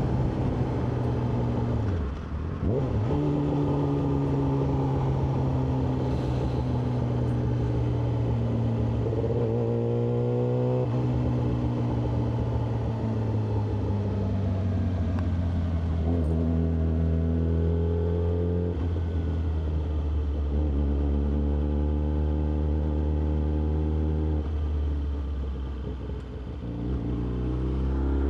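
Yamaha R6's inline-four engine running as the bike rides along. The pitch rises and falls with the throttle. It dips briefly about two seconds in, climbs and then drops sharply near ten seconds, settles slowly lower, and rises again near the end.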